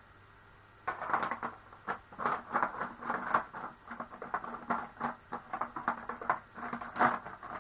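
Plastic pens clicking and rattling against each other as they are sorted through in a box, a fast run of small clicks starting about a second in, with a louder click near the end.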